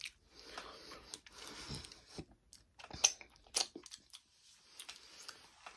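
Quiet chewing of a crisp, cookie-like chocolate-coated snack, with a few sharp crunchy clicks near the middle.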